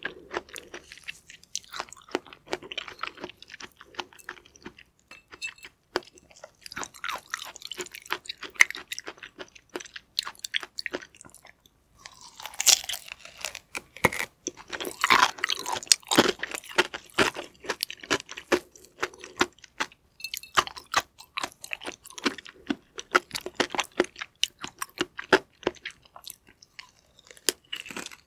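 Close-miked chewing of chunks of stingray liver: wet mouth sounds with many small crunchy clicks. It is busiest around the middle, when a fresh bite is taken.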